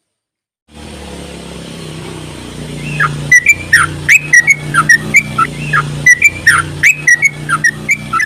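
Yellow-vented bulbul (trucuk) singing a fast chattering song: a loud run of short whistled notes that rise and fall, about two to three a second, starting about three seconds in. Under it runs a steady low hum that starts abruptly about a second in.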